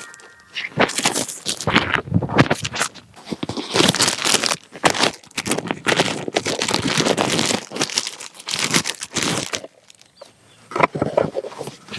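Toy packaging crinkling and tearing as it is opened by hand: irregular rustles and rips, with a brief pause near the end.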